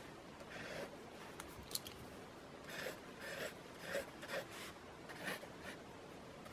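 Writing on paper with a pen: a string of short scratchy strokes, with a few light clicks about a second and a half in.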